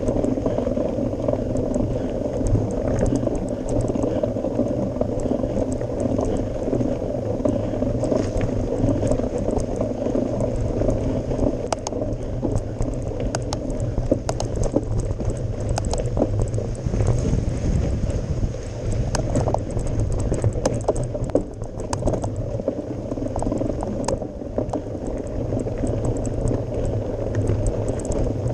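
Mountain bike ridden on a gravel forest road: a steady low rumble of tyres on gravel, with scattered clicks and rattles of stones and the bike.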